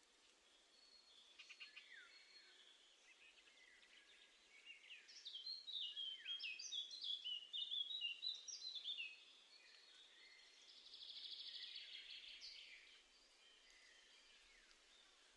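Small garden songbirds calling and singing, faint: a run of quick, high chirping notes a few seconds in, then a short buzzy trill near the end.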